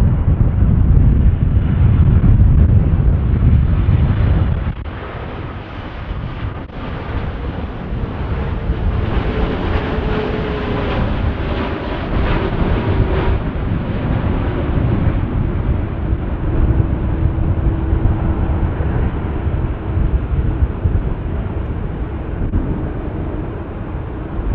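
Large jet airliner landing: a heavy low rumble for the first few seconds, then steady jet engine noise with a faint whine that slowly falls in pitch.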